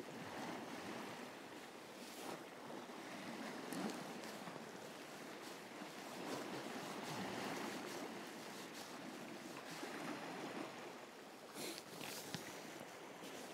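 Sea water washing against shoreline rocks: a faint, even wash with a few small clicks.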